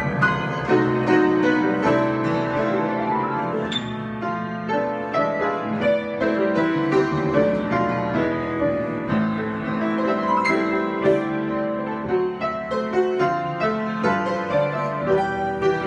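Solo piano improvisation: many overlapping notes played freely, with chords in the low and middle register and a melody moving above.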